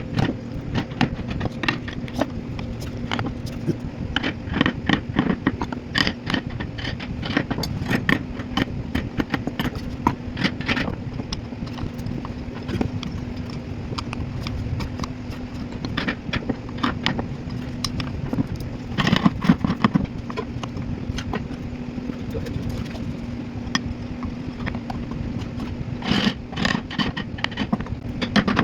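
Carving tools working wood: irregular taps, knocks and scrapes, with a denser cluster about nineteen seconds in and again near the end, over a steady low hum.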